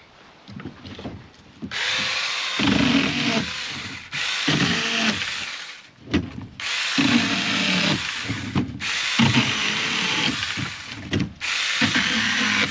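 A power tool's motor running in about five bursts of roughly two seconds each, with short pauses between them, as when a drill is run in short spurts.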